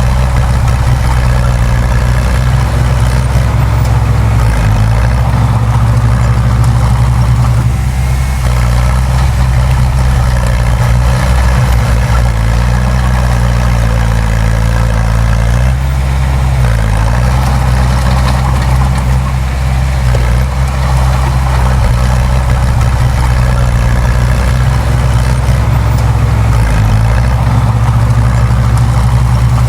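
Heavy earthmoving machinery's diesel engine running loud and steady, its engine note shifting several times as the load or throttle changes.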